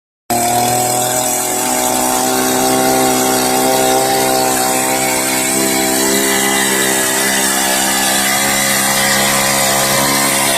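Earth auger's engine running steadily at a constant speed, its pitch holding nearly level.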